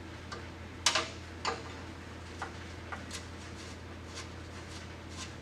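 Irregular sharp metal clicks and clinks of a wrench working a brake line fitting on a 1964 Dodge D100 as it is unscrewed, the two loudest about a second and a second and a half in, over a steady low hum.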